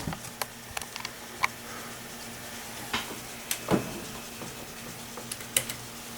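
Scattered light clicks and taps, about eight of them at uneven intervals, over a steady low hum.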